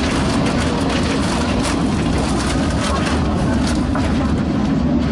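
Passenger train running at speed, heard from inside the carriage: a steady rumble of wheels on rail with a few faint clicks.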